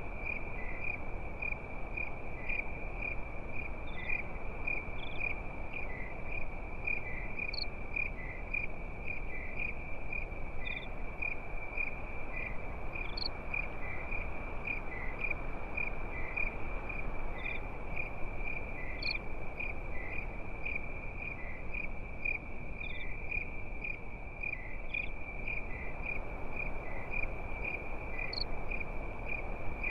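Crickets chirping in a steady, pulsing high trill, with a few brief higher chirps now and then, over a soft continuous hiss.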